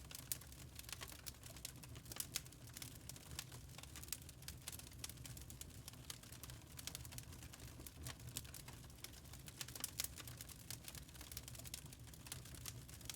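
Wood fire crackling in a fireplace: irregular sharp pops and snaps, some louder than others, over a low steady hum.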